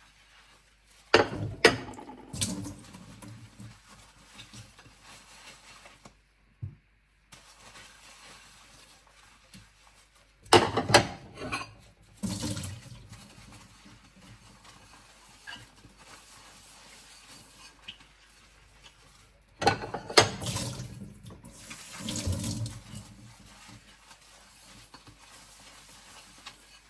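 Dinner plates being scrubbed and handled in a sink with water: three bouts of sharp clinks and splashing, about nine seconds apart, with quieter stretches between.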